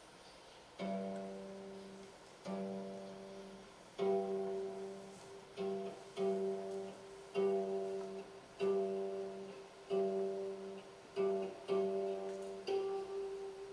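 Gayageum played solo in a slow passage: single plucked notes about once a second, each struck sharply and left to ring and fade, mostly on the same pitch.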